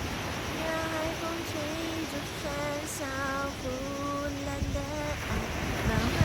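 A voice singing unaccompanied in a slow melody of held notes, over a steady low wind rumble on the microphone that swells near the end.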